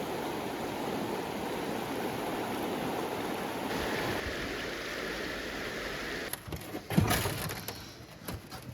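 Steady rushing of flowing stream water, changing in character about four seconds in. A single loud knock comes about seven seconds in.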